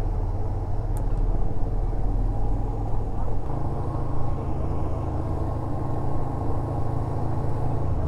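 Yamaha SRV250's V-twin engine running steadily under way, over a heavy low rumble, with a change in the engine note about three and a half seconds in.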